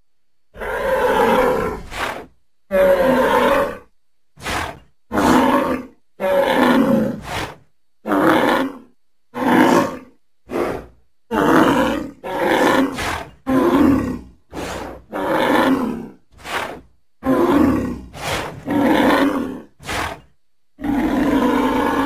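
Sound-effect creature calls made as the voice of Elasmotherium, an extinct giant rhinoceros: about twenty deep pitched calls, some lasting a second or more and others very short, following one another with brief pauses.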